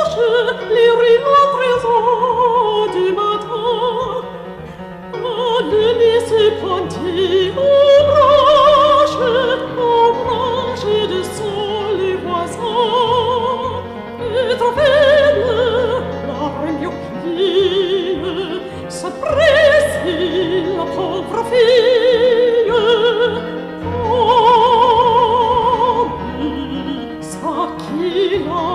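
Operatic singing with a wide vibrato, a solo voice carrying a slow melody over a held low accompaniment.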